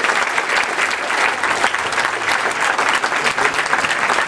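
Large crowd applauding steadily, with cheers, after an award winner is announced.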